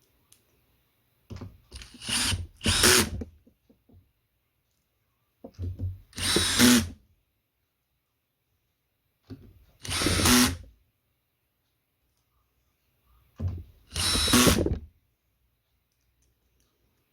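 Cordless drill/driver whirring in short runs of about a second each, four times with pauses between, the first in two quick spurts, as it turns screws in the speaker's casing.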